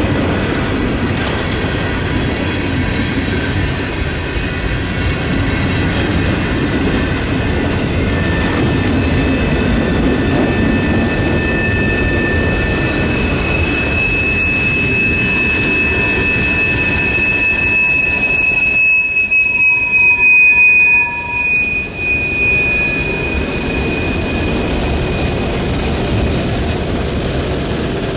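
A train rolling past with a steady rumble of wheels on rail and a high, drawn-out wheel squeal sounding at several pitches at once, loudest about two-thirds of the way through.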